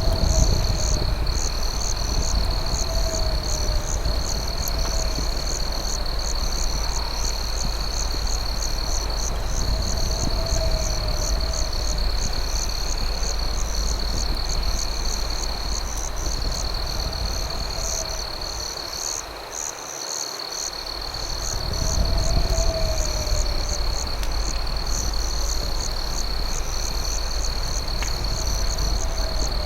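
Crickets at night: a steady high trill with a faster pulsing chirp above it, and a low wavering call every three to four seconds, over a steady low rumble that dips briefly about two-thirds of the way through.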